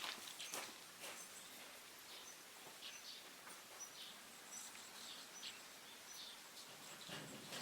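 Faint woodland ambience with scattered short, high bird chirps.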